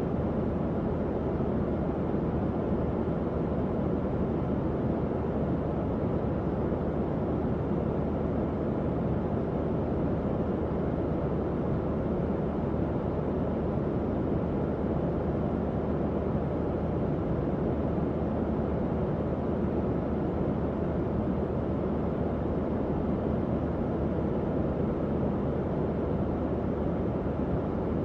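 Tower fan running steadily: a constant low rush of moving air with a faint low hum underneath, unchanging throughout.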